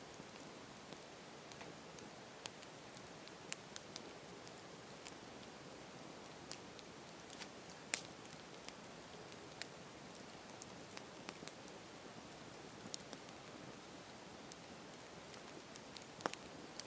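Campfire burning: a soft steady hiss with irregular sharp crackles and pops, the loudest about halfway through and another near the end.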